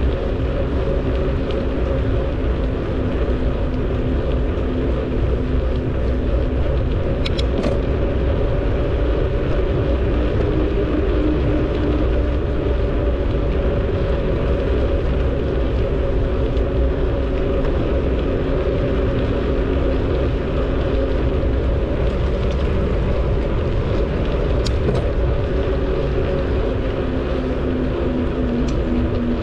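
Steady wind and road noise from a bicycle ride on a paved trail: wind rushing over the camera's microphone, with a low rumble and a steady hum from the tyres. Two brief high ticks break through.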